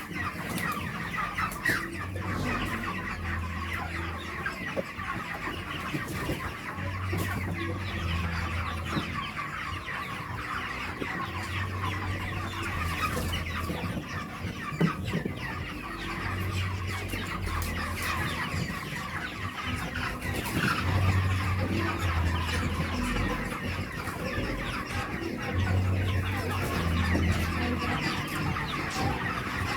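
A flock of broiler chickens peeping and clucking continuously. A low hum comes and goes every four to five seconds underneath.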